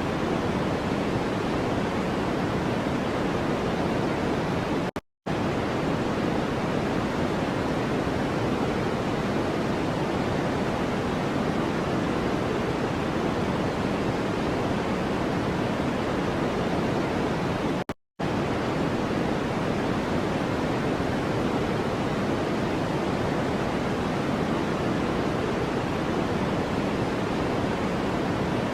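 Steady white-noise track, a constant even hiss weighted toward the low-middle range. It cuts out to silence for a split second twice, once about five seconds in and again about eighteen seconds in.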